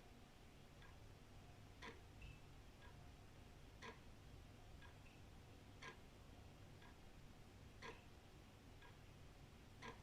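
Old wall clock ticking quietly about once a second, a louder tick alternating with a softer tock. A faint steady low rumble lies underneath.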